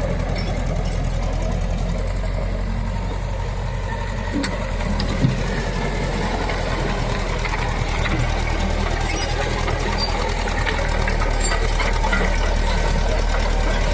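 Caterpillar D4D crawler tractor's diesel engine running steadily, with a single sharp knock about five seconds in.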